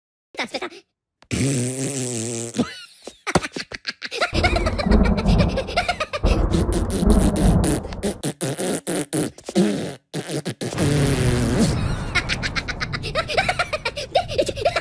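Cartoon sound effects: a long crackling electric zap over a low rumble as lightning strikes, then high cartoon Minion voices babbling and laughing near the end.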